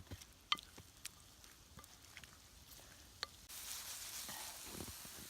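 Eggplant frying in olive oil in a pan over a campfire: scattered sharp pops and crackles, then a steadier, louder sizzle starting about three and a half seconds in.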